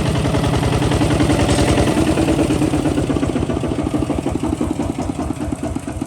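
Kubota ZT 155 DI two-wheel tractor's single-cylinder diesel engine running with a rapid, even chugging, fading over the last few seconds.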